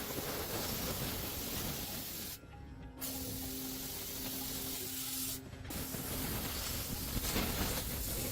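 Hissing blasts of pressurised spray in three long spells, each cut off briefly before the next, over quiet background music.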